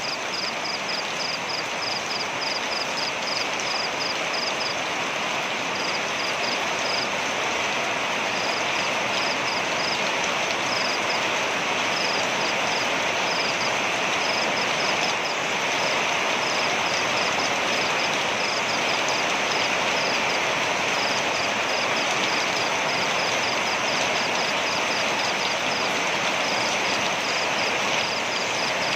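Waterfall: a steady rush of heavily falling water. Over it runs a rapid, high chirping from a calling animal, about three chirps a second, pausing briefly now and then.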